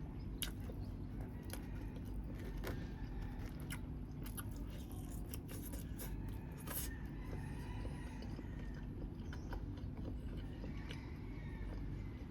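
A person chewing and biting into grilled chicken: scattered sharp clicks and smacks of eating, thickest in the middle, over a steady low hum.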